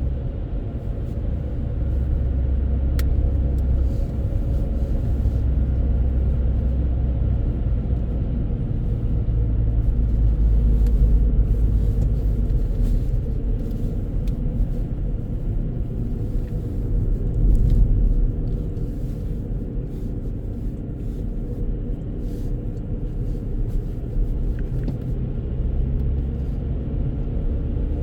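Car driving on the open road, heard from inside the cabin: a steady low rumble of engine and tyres that swells louder a couple of times.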